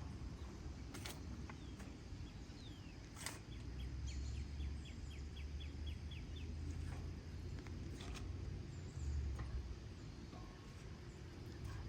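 A songbird calls a quick run of about a dozen short, evenly spaced chirps a few seconds in, over a low steady rumble. A few scattered crunches of footsteps in dry fallen leaves are heard.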